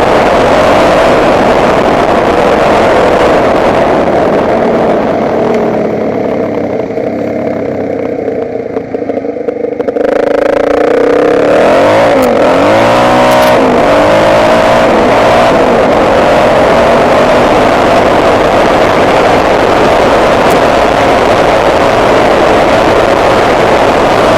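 Motocross motorcycle engine running under way; it drops to a quieter, duller note for a few seconds, then revs up and down hard about halfway through before settling into steady running again.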